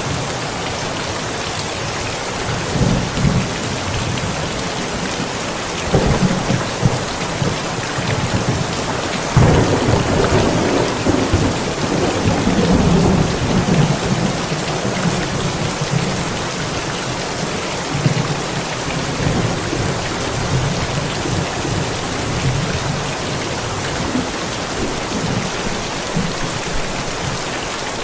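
Steady heavy rain with thunder: rumbles roll in about 3 and 6 seconds in, then a long, louder peal from about a third of the way through that slowly dies away, leaving the rain.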